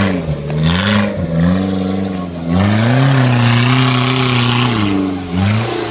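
Off-road vehicle engine revving hard in mud. The pitch climbs and falls several times and is held high for a couple of seconds in the middle, with a rushing hiss alongside.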